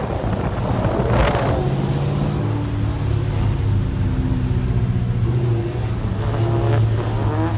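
Car engines heard from inside a car: a steady low engine drone. A drift car's engine revs up and back down about a second in, and again near the end.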